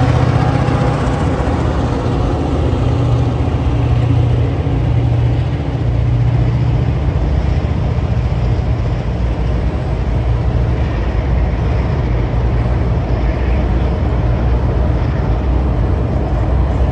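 Diesel locomotives of a coal train drawing away, their low engine hum fading over the first several seconds, then a steady rumble of coal hopper wagons rolling across a steel girder railway bridge.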